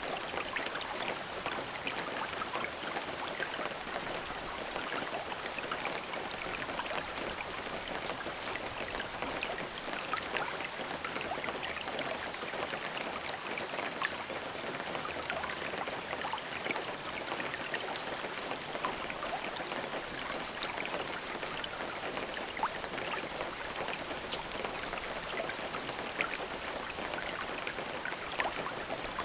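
Steady rain falling, a continuous even hiss with many small drops pattering and ticking throughout.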